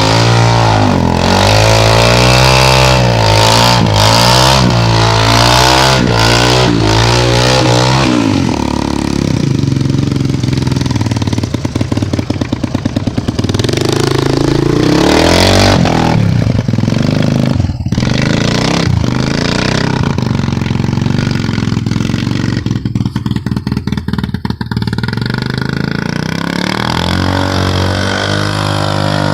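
Honda FourTrax ATV's single-cylinder engine revving up and down repeatedly close by. About eight seconds in it drops to a noisier, more distant running sound, and it comes back up in pitch near the end.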